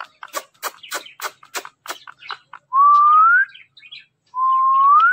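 Indian ringneck parakeet making a run of sharp clicks, about four a second, then two loud whistles, each under a second long, that rise slowly in pitch near the end.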